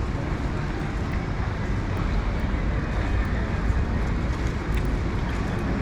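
City street ambience: a steady low rumble and hiss of traffic and urban noise.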